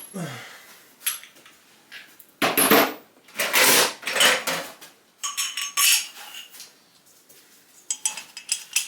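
Metal hand tools and sockets clinking and rattling as they are handled, with two longer, louder rattles about two and a half and four seconds in.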